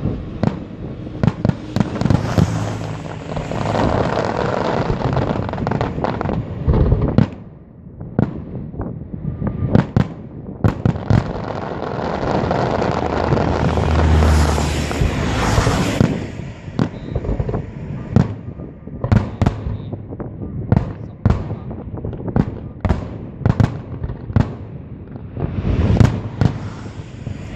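Fireworks display: shells bursting with sharp bangs and dense crackling, swelling into thick barrages twice, then a run of separate bangs in quick succession.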